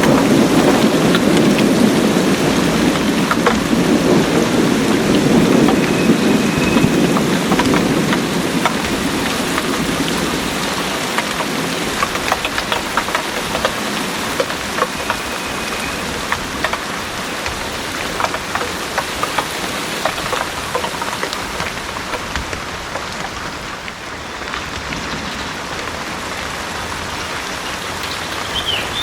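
Heavy rain falling steadily, with close drops striking surfaces. A low rumble of thunder dies away over the first several seconds.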